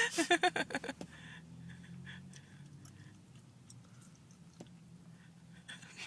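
Seagull ending its call with a quick run of short, clipped notes in the first second, then faint scattered ticks and taps from the gull on the car, over a low steady hum.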